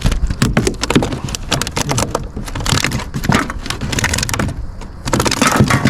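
Quick, irregular run of clicks and rattles from handling a small sunfish hooked on a spinnerbait: the lure's metal blade and hook jingling as the fish is held and unhooked.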